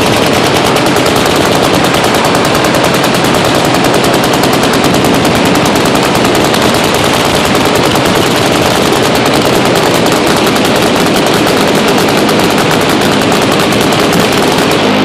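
Machine guns firing full-auto in dense, overlapping strings of shots that never pause.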